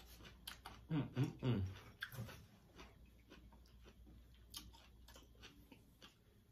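Eating sounds: chewing and scattered soft clicks from handling food, with a brief murmured voice about a second in.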